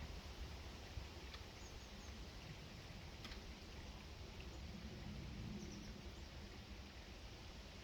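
Faint outdoor ambience with a steady low background rumble, with a few brief high bird chirps and a couple of short clicks or taps from small birds at the feeder.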